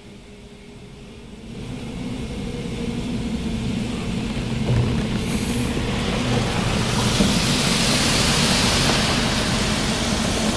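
Mark VII ChoiceWash XT automatic car wash machinery working over the car, heard from inside the car: a rush of noise over a low hum that grows much louder about a second and a half in, with a hiss that peaks in the second half.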